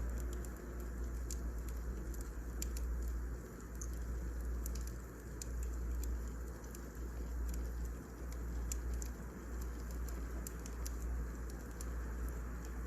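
Wood fire crackling: a steady low rumble of burning logs with frequent scattered sharp pops and snaps.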